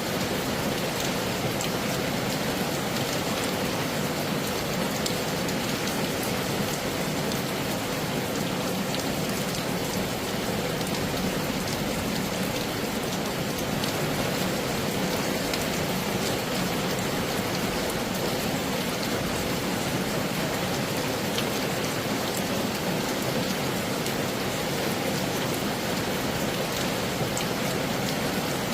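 Heavy rain falling steadily: a dense, even hiss scattered with many small drop ticks.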